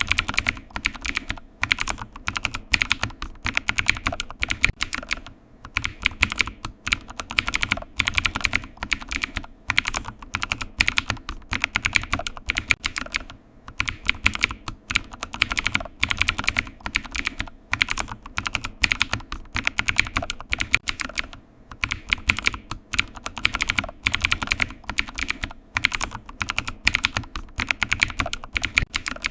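Typing on a computer keyboard: quick runs of key clicks with short pauses every few seconds.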